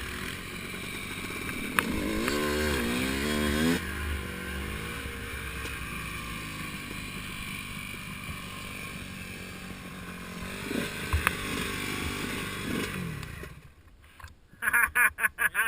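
Dirt bike engine running under way, revving up about two to four seconds in, then holding steadier before it falls away near the end. Short, loud, choppy bursts follow in the last second or two.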